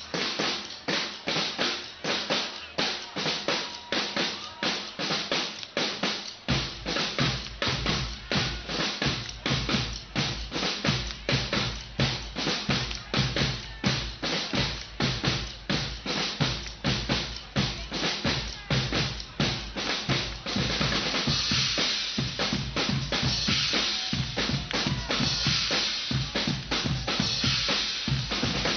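Guggenmusik band's drum section playing a steady marching beat of about two strokes a second. Bass drums join about six seconds in, and after about twenty seconds the sound grows fuller and brighter.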